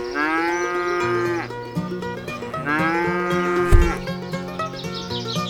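Two long, drawn-out calls, each rising in pitch at the start and then held for over a second, with about a second between them, over background music with plucked notes.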